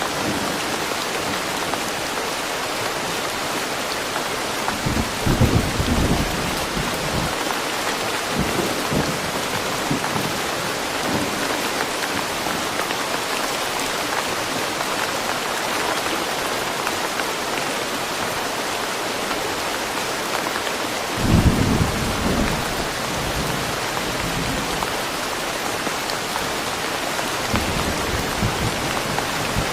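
Steady rain falling on forest trees, with low rumbles of thunder, loudest about five seconds in and again just past twenty seconds, and a fainter one near the end.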